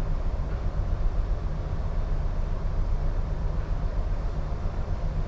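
Steady low rumble and hiss aboard a container ship, the mix of strong wind and the ship's machinery, with no change throughout.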